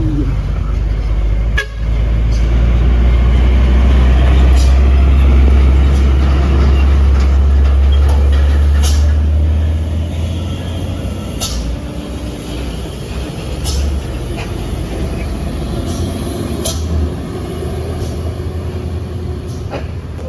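Heavy diesel truck engine labouring up a steep climb, a deep rumble that is loudest in the first half and eases off about ten seconds in. Several sharp clicks or knocks sound over it.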